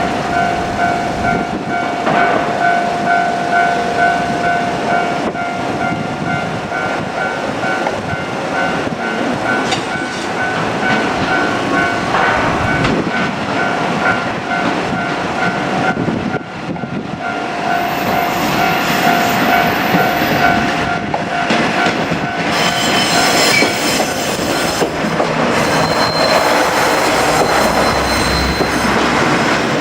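Level crossing warning bell ringing in a steady repeating pattern while a two-car JR Kyushu KiHa 47 diesel railcar approaches and passes. The railcar's engine and wheel noise grows louder from about halfway through and dominates near the end.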